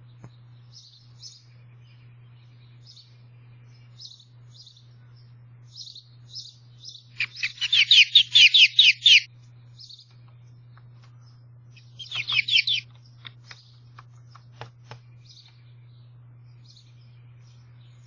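Small bird chirping with short high calls and breaking twice into a loud rapid trill, the first lasting about two seconds. A few sharp taps follow the second trill, fitting the bird pecking at the window glass.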